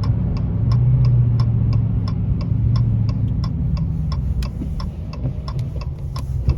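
Car turn-signal relay ticking evenly, about three clicks a second, over the low steady hum of the 2020 Dodge Challenger R/T's 5.7 L HEMI V8 running on its factory exhaust.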